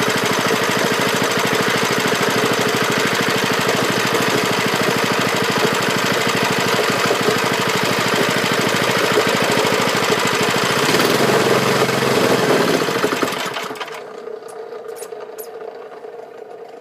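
Lifan 6.5 hp single-cylinder engine running fast after a cold start, a rapid, even firing. About thirteen seconds in, its sound drops away sharply to a much quieter run.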